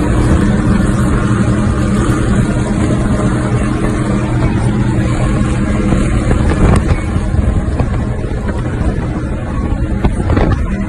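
Cigarette powerboat's engines running steadily with a deep rumble.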